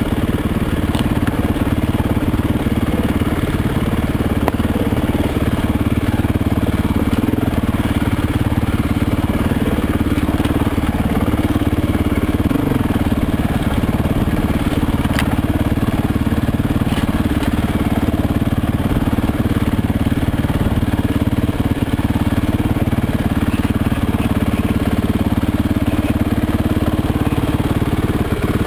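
Off-road motorcycle engine running steadily on a rocky trail ride, with a couple of brief sharp clicks.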